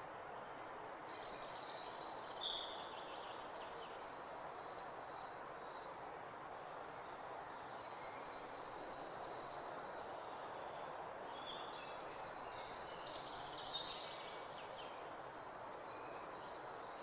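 Outdoor ambience: a steady hum of distant background noise with small birds singing in short bursts of high chirps, once a few seconds in and again past the middle, and a high buzzy trill between them.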